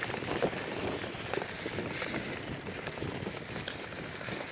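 Bicycle rolling along a trail: steady tyre and rushing noise with scattered small clicks and rattles.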